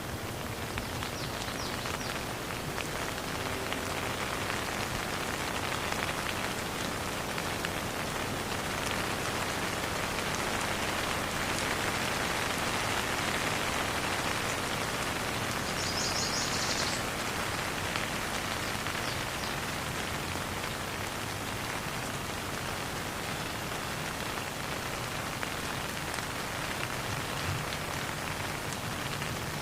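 Steady rain falling and pattering on surfaces, a little heavier in the middle, with no thunder. A brief high chirping sound cuts through it about sixteen seconds in.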